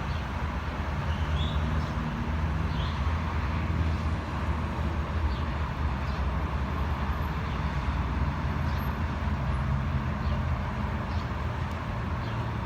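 Diesel-electric locomotive hauling a container freight train: a steady low engine rumble with rolling noise from the wagons, and a few faint short high squeaks.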